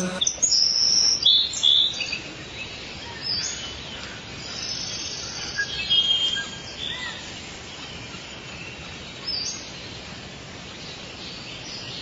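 Birds chirping and calling: short high-pitched calls in scattered bursts, the loudest in the first two seconds, over a steady hiss.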